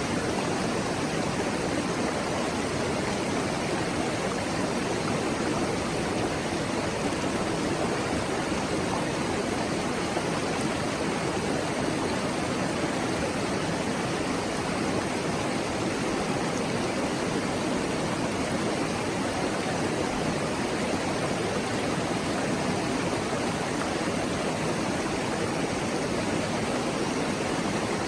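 Mountain stream murmuring over its bed, a steady, unbroken rush of running water.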